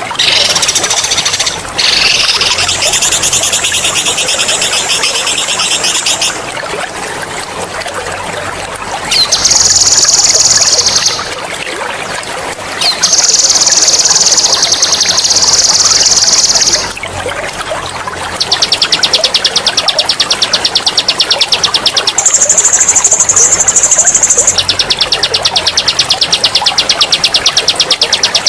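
A songbird sings long, rapid, high-pitched rolling trills in bursts of several seconds, loud and sharp, with short pauses between them. The bursts from about 18 seconds on are the fastest, and two short ones are pitched higher. A steady trickle of running water sounds underneath.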